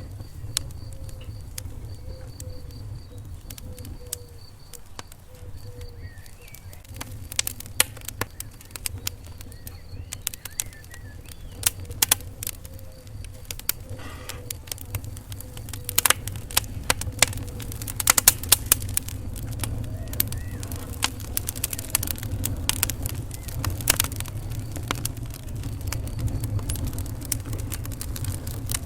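Wood fire in a fireplace crackling, with sharp pops and snaps over a steady low rumble of the flames. The pops are sparse at first, then come thicker and louder from about a quarter of the way in.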